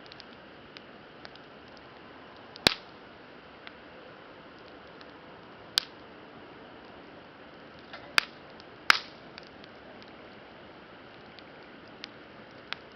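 Wood campfire crackling: small ticks over a steady low hiss, with four loud sharp pops, the last two less than a second apart.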